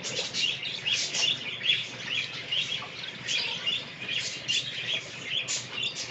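English budgerigars chattering: a steady stream of short, quick chirps.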